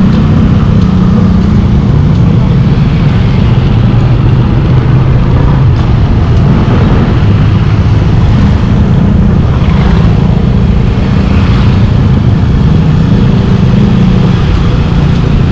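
Motorbike engine running under way, its pitch rising and falling a little with speed, loud and steady throughout.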